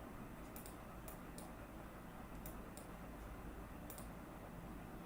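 Scattered computer mouse clicks: about seven sharp, short clicks, some in quick pairs, over a low steady hum.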